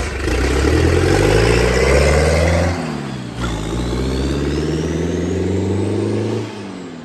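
The 2.2-litre turbo diesel engine from a 1983 Ford Ranger, mounted in a picnic table, running and revving. Its note climbs, drops a little under three seconds in, then holds steady while a thin high whine rises above it, and falls away near the end.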